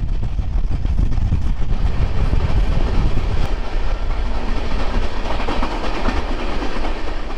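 Passenger train running on the line, a steady loud rumble and clatter of wheels on rails heard at the open coach doorway; the deep rumble eases about halfway through.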